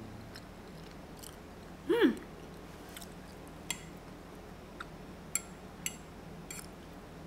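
A person chewing a mouthful of lasagna, with faint scattered wet mouth clicks. About two seconds in comes a short hummed 'mm'.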